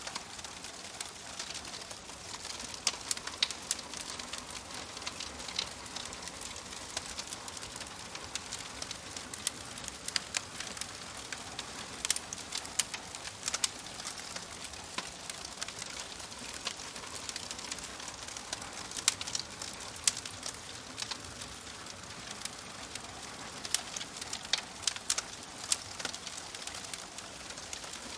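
Fireplace fire crackling: a soft steady hiss with irregular sharp pops and snaps, a few louder ones scattered throughout.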